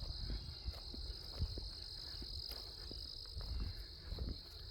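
Footsteps on a trail, a string of soft low thumps, over a steady high-pitched outdoor chorus of calling insects or frogs.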